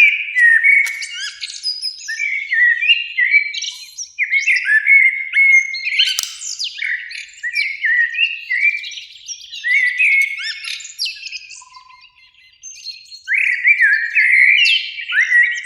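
Common blackbirds singing, phrases of gliding whistled notes following one another almost without a break, with a short lull near the end.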